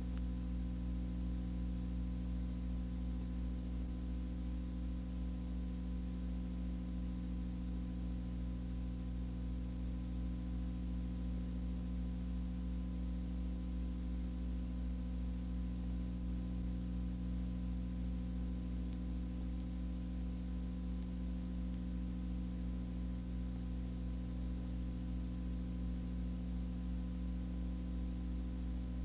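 Steady low droning hum made of several even tones, unchanging throughout, with a faint hiss above it.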